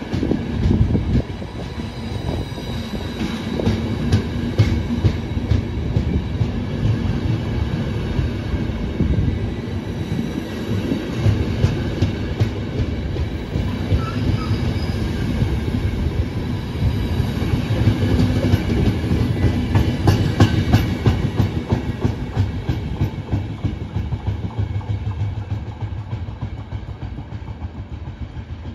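Passenger train coaches running past close by: a steady rumble of wheels on rail with repeated clattering over the rail joints. The sound fades near the end as the last coach goes by.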